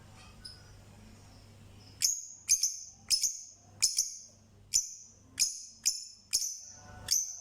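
A bird calling: a run of about ten sharp, high-pitched chirps, a little under two a second, starting about two seconds in after fainter chirping.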